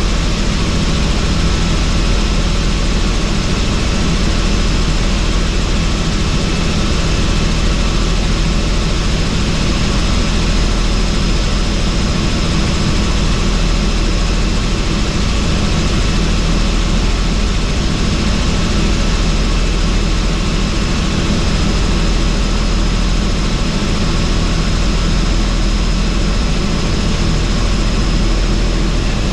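Helicopter in cruising flight with its doors off: the rotor and engine run loud and steady, with a few faint high steady tones over the noise and no change in pitch.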